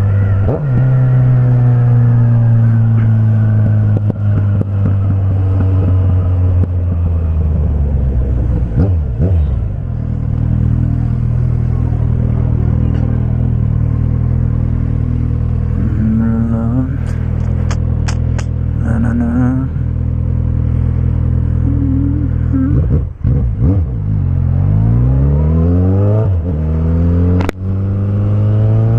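Suzuki Bandit 1250's four-cylinder engine running through a straight pipe with no muffler, heard while riding. The engine note falls as it slows in the first seconds, holds steady at cruise, then revs up hard near the end as the bike accelerates.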